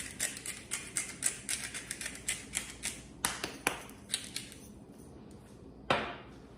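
Seasoning shaker being shaken over a pan of sauce: a quick, even run of light clicks, about four a second, that stops about four seconds in, followed by a single knock near the end.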